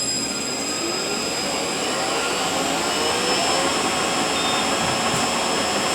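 Eaton Fuller RTO-11707LL truck transmission running on a test dyno after repair. A gear whine rises in pitch over the first three seconds or so, then holds steady over a loud, even mechanical rush.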